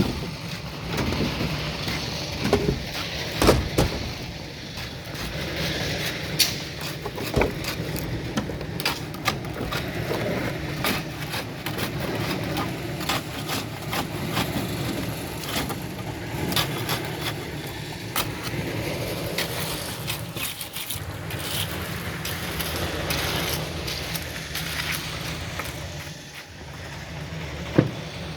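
An engine running steadily on a concrete job, with repeated scrapes and sharp knocks of tools over it.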